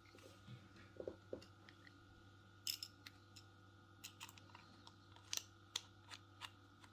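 Faint, irregular light clicks and taps of small hard objects being handled, about a dozen spread over several seconds, over a faint steady hum.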